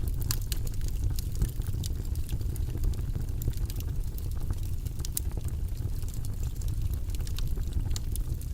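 Wood fire burning in a fireplace: a steady low rumble of flames with many sharp, irregular crackles and pops from the logs.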